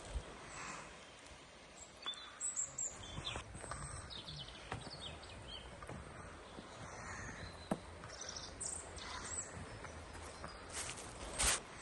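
Birds chirping and singing in short scattered calls over a faint outdoor background hiss, with a few sharp clicks or knocks, the loudest one near the end.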